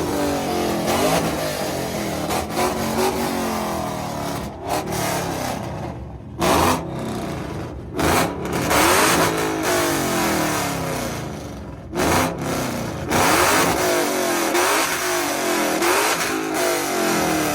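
A car engine being revved hard over and over, its pitch climbing and dropping about once a second, with a few short, loud blasts at the tops of some revs.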